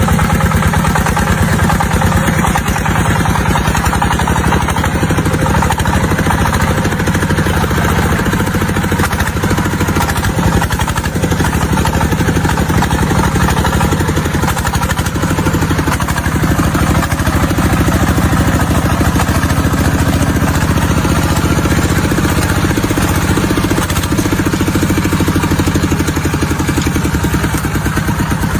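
Tractor engine running steadily without let-up, with an even firing beat.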